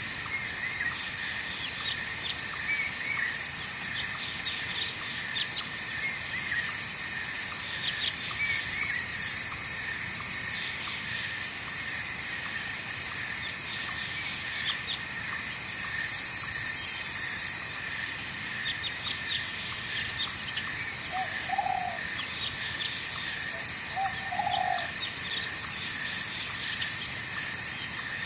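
Night-forest ambience: a steady chorus of insects, with a high pulsing trill that starts and stops every few seconds, scattered faint chirps, and a few short low calls in the second half.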